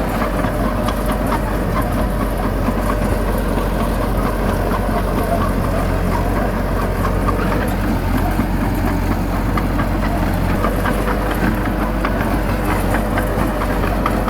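Bulldozer's diesel engine running steadily under load, with a constant light clatter of small knocks over it.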